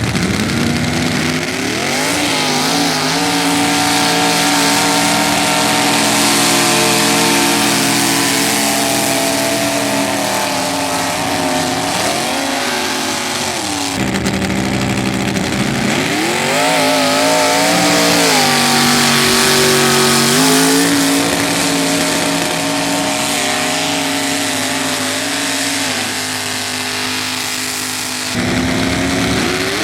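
Mud racing truck's engine running hard at high revs, its pitch climbing, holding, then dropping and rising again several times. The sound breaks off and changes abruptly twice.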